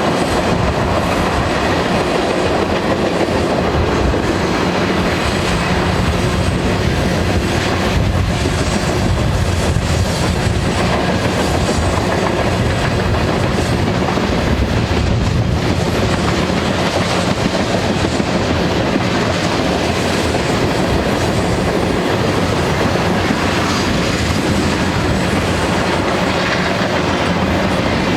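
Union Pacific freight train cars rolling past, a steady, unbroken noise of steel wheels running on the rails.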